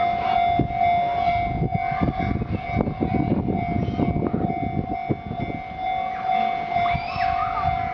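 A Sotetsu Line train running over a level crossing: a rumble of wheels with rapid clacking that builds about half a second in and fades away after about five seconds. Under it a level-crossing warning signal sounds as a steady high tone.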